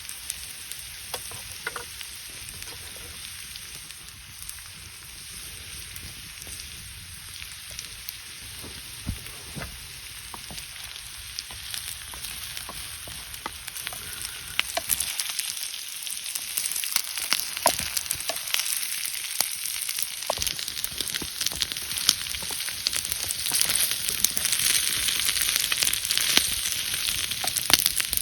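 Food sizzling and frying in a pan over a campfire, with many scattered pops and crackles. The sizzle grows louder about halfway through.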